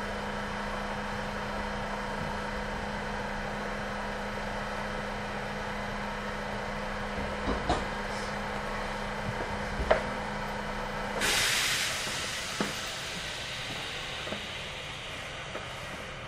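Kintetsu 9020 series electric train standing at the platform: a steady hum from its onboard equipment with a few light clicks. About eleven seconds in the hum stops and a sharp hiss of released air comes, fading over the next few seconds.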